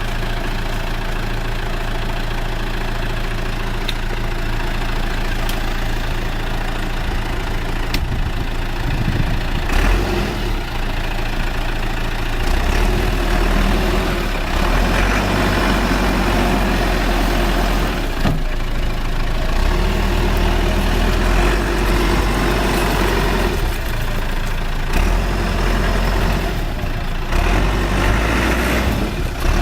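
Caterpillar 416C backhoe loader's turbocharged diesel engine idling steadily. About ten seconds in it revs up and runs harder, rising and falling as the machine is worked.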